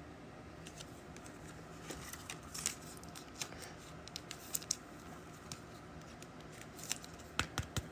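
Trading cards and their packaging being handled: scattered light clicks and short rasps as cards and wrappers are moved and sorted.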